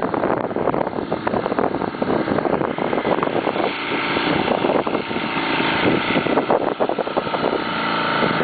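A boat's motor running steadily under a rush of wind and water noise.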